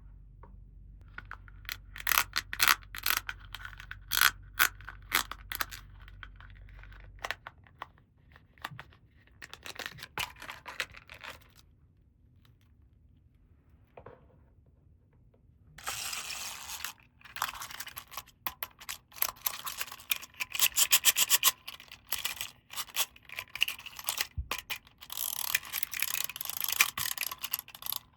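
Plastic toy packaging being handled and torn open, in crackling, crinkling bursts with short pauses, denser in the second half.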